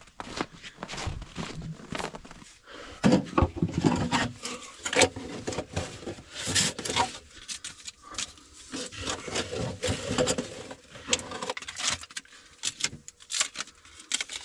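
Hands working a flexible air-intake pipe into place against a wooden wall: irregular scraping, crinkling and clicking handling noise, with louder knocks about three and five seconds in.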